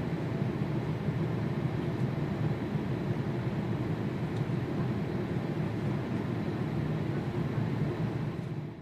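Steady noise of an Airbus A350-941's Rolls-Royce Trent XWB jet engines, heaviest in the low range, fading out near the end.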